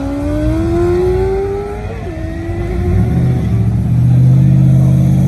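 Car engine accelerating hard, its pitch climbing steadily, then dropping about two seconds in as it shifts up. From about three seconds in, a louder, deep, steady engine note takes over.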